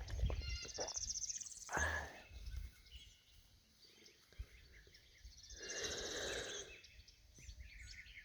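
Faint bird calls: a high trilling call about a second in and another, fuller one around six seconds in, over a low rumble of handling or footsteps in the first few seconds.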